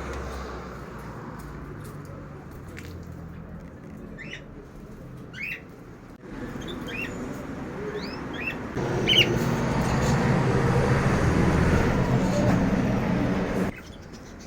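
Small birds chirping in short, rising notes, repeated several times in the first half, over a background rumble. About nine seconds in, a louder steady rushing noise swells up and then stops suddenly near the end.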